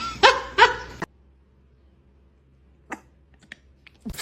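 Two short, high-pitched cat meows in quick succession, then a few faint clicks.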